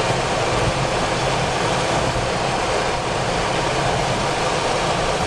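Steady rumble and hiss inside the cockpit of a Boeing 737-400 lining up on the runway, its CFM56-3 turbofan engines near idle.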